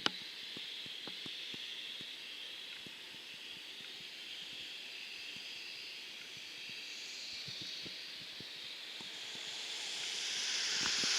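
Distant jet aircraft engines, a steady hissing whine that grows louder over the last few seconds as the aircraft draws nearer. Light clicks are scattered through it.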